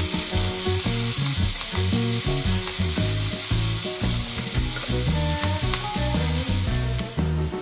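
Bacon, whole garlic cloves and garlic chives sizzling in a nonstick wok as they are stir-fried with tongs, with background music underneath; the sizzle thins out about seven seconds in.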